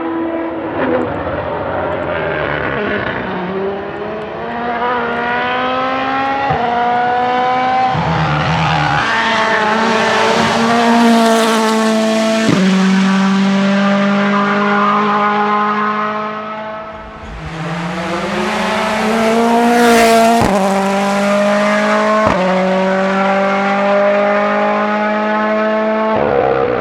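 Ford Puma Rally1's 1.6-litre turbocharged four-cylinder accelerating flat out through the gears, its pitch climbing and then dropping at each upshift as the car passes at speed. The car passes twice, loudest about eleven and twenty seconds in, with a short lull between the runs.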